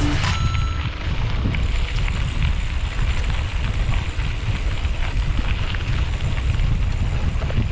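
Wind buffeting the camera microphone while riding a mountain bike, a steady low rumble with a hiss above it.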